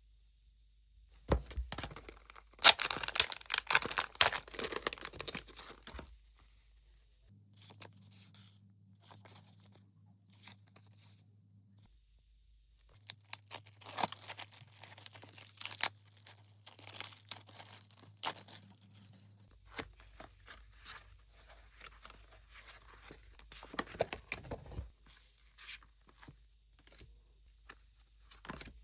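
Packaging being torn open and handled, in three spells of tearing and crinkling with pauses between them.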